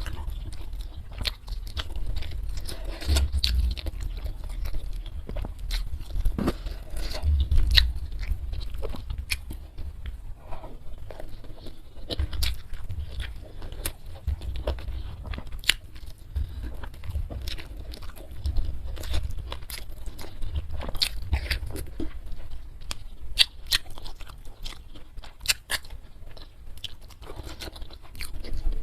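A person eating close to the microphone: chewing and crunching food, with many irregular sharp clicks and wet mouth sounds.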